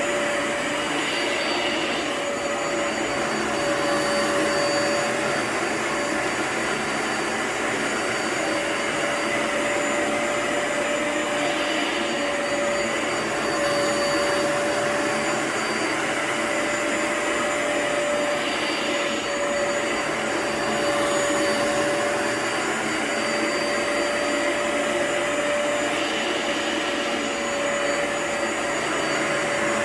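A vacuum or carpet-cleaning machine running on a rug: a steady motor whine under a rushing hiss that swells and eases every six or seven seconds.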